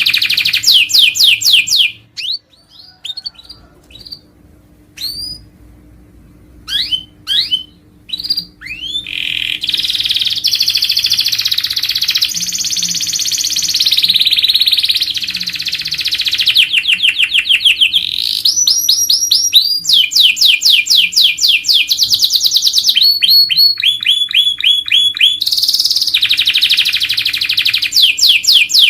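Domestic canary singing: long, rapid trills and rolls of repeated high notes. About two seconds in the song breaks off into a few seconds of scattered single rising chirps, then resumes as near-continuous trills with changing pitch and tempo.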